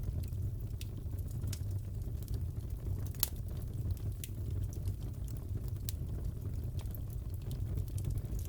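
Wood fire crackling in a fireplace: a steady low rumble with irregular sharp crackles and pops, the loudest about three seconds in.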